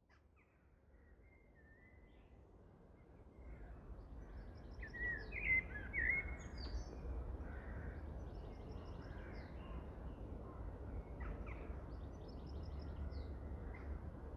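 Woodland birds singing and calling over a steady low background rumble, fading in over the first few seconds. Short high trills recur every few seconds among louder calls a few seconds in.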